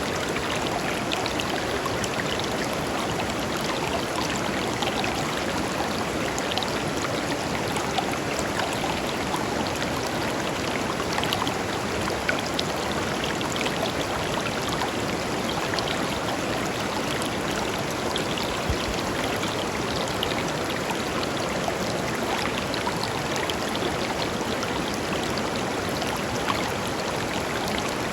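Small river flowing over stones: a steady rush of water with fine splashing and trickling.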